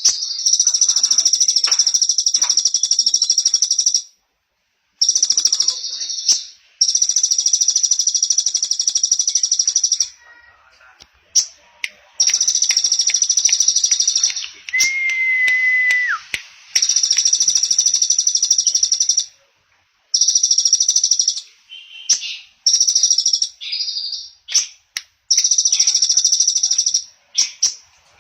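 A small songbird sings a very fast, high trill in long phrases of one to four seconds, with short pauses between them. About fifteen seconds in comes a single clear, steady whistle that drops off at its end.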